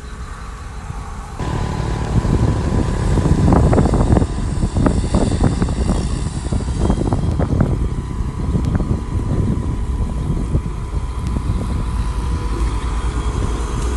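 Diesel engine of heavy earthmoving equipment running under load. It gets suddenly louder about a second and a half in, with uneven surges for several seconds after.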